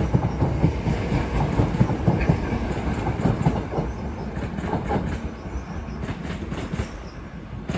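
Class 465 Networker electric multiple unit pulling away, its wheels clacking over the track with a low rumble that slowly fades as it leaves.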